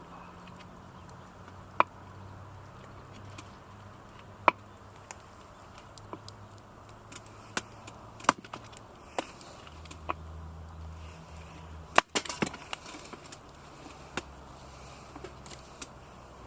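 Wood campfire crackling, with scattered sharp pops and snaps every second or few and a quick cluster of louder snaps about twelve seconds in.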